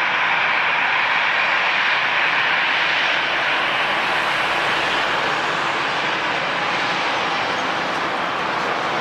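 Jet airliner engines making a steady, loud rushing noise, easing slightly partway through.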